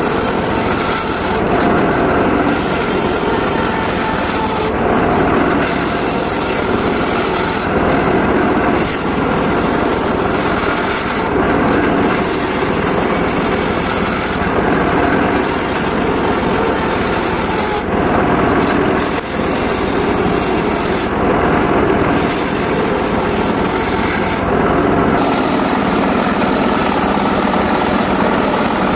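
Homemade circular saw running steadily while its blade cuts sengon laut timber, the high-pitched cutting sound rising and dropping away again in a regular cycle of about three seconds as each cut is made.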